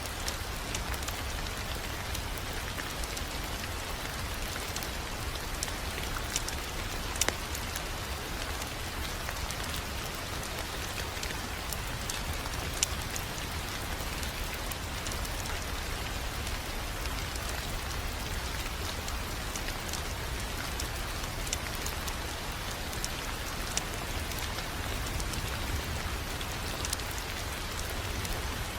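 Fireplace fire crackling steadily, dense small crackles with a few sharper pops about seven seconds in and near thirteen seconds, over a steady low rumble.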